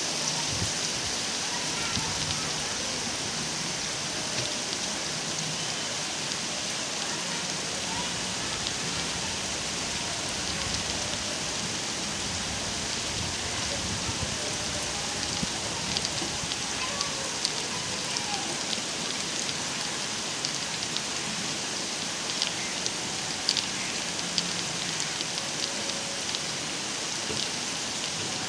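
Steady rain falling, an even hiss with individual drops ticking sharply here and there, more often in the second half.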